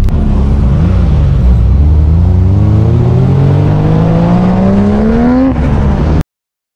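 Turbocharged 4G63T four-cylinder of a 1990 Talon TSi accelerating hard through a gear under boost, its pitch rising steadily for about four seconds. Near the end it backs off and the sound cuts off abruptly.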